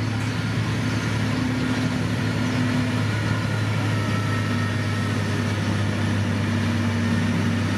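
Heavy diesel engine of road construction machinery running steadily, a constant low drone.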